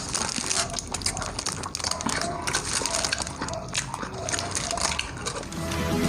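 Close-miked eating sounds: wet chewing and crunching with many small clicks. Music fades in near the end.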